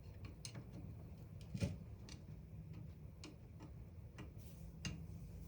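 Faint, irregular light clicks and taps, about seven in all, of small tool parts and fasteners being handled during reassembly, over a low steady hum.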